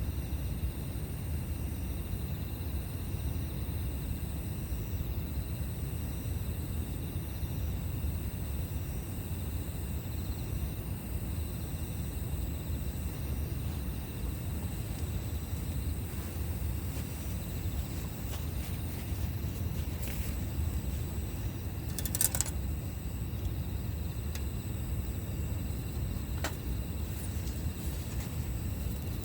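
Campfire burning with a steady low rumble and a few sharp pops, the loudest about 22 seconds in. A steady high-pitched insect chirring runs behind it.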